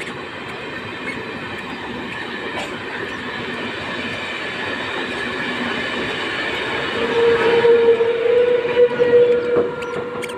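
MEMU electric multiple unit rolling past on the track, a steady running noise that slowly grows louder as the coaches pass. About seven seconds in a steady tone joins for about three seconds, the loudest part, and it ends as the driving car goes by.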